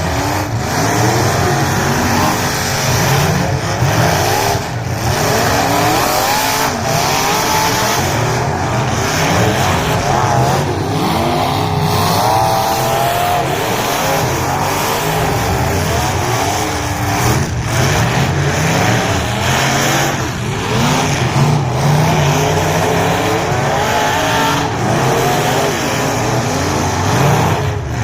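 Several race car engines revving up and down together, their pitches rising and falling over one another as the cars accelerate and back off.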